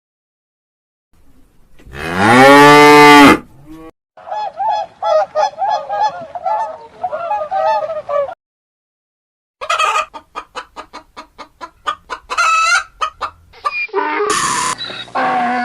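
Several farm animal calls in turn, with short gaps between them. First comes one loud, long call that rises and falls in pitch. Then about four seconds of repeated honking calls, and after a pause a fast run of short calls, with more calls near the end.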